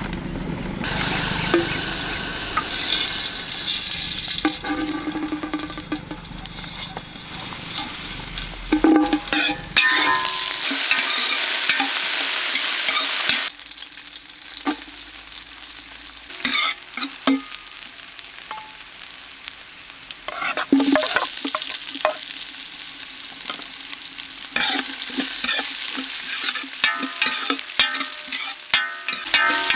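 Food frying in a hot pan, sizzling while a utensil stirs and scrapes it with frequent clicks. A loud, steady sizzle comes in about ten seconds in and cuts off suddenly a few seconds later.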